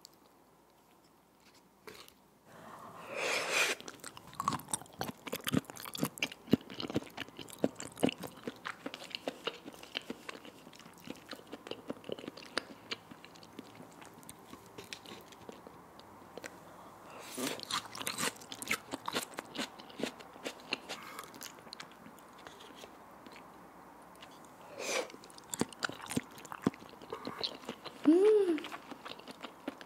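Close-miked mukbang eating sounds: wet chewing and mouth smacks while eating raw salmon sashimi, a dense run of small clicks and squishes. Near the end comes a short hummed "mm".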